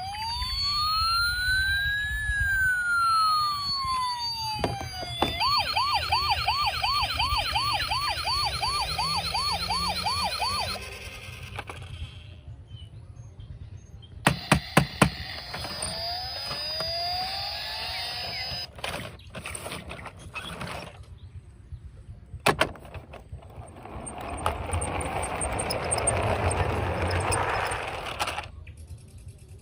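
Electronic siren of a toy vehicle: a slow wail that rises and falls once, then from about five seconds in a fast warbling yelp, about three cycles a second, for around five seconds. About halfway through come a few sharp clicks, followed by weaker siren glides and a stretch of noise near the end.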